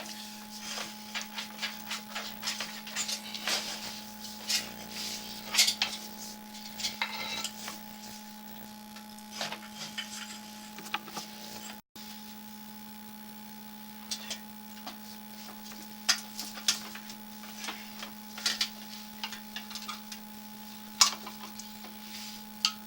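Steady electrical hum from a sewer inspection camera system, with scattered clicks and clatters as its push rod is fed into the sewer line. The sound cuts out for a moment about halfway through.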